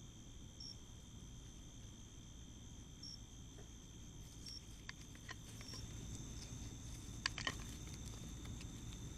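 Insects calling: two steady, high-pitched trills with a short chirp every couple of seconds. A few faint clicks and rustles come in the second half, with a sharper pair of clicks about seven seconds in.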